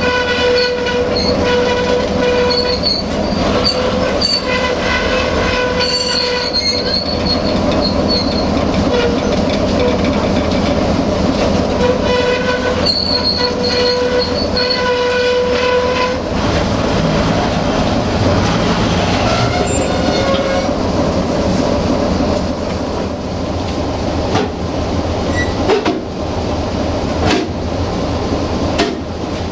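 A train rolling along the track with a steady rumble. A high pitched tone sounds in several stretches of about two seconds through the first half, then stops.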